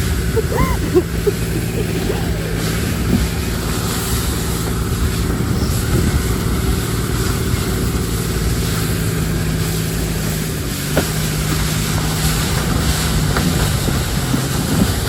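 Loud, steady rushing of wind buffeting the microphone, with a low steady hum underneath.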